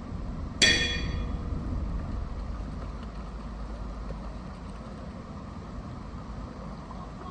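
A single sharp metallic clink about half a second in, ringing briefly and fading, over a steady low rumble.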